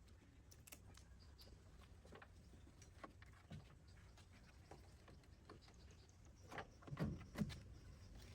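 Faint, scattered light clicks and taps, with a few louder knocks close together near the end.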